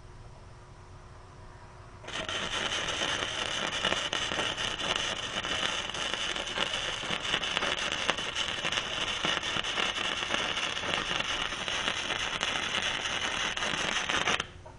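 Flux-core wire welding arc from a Reboot RBM1600 welder, laying a bead on a T-joint: a steady, dense crackling that strikes up about two seconds in, runs for around twelve seconds and cuts off suddenly near the end.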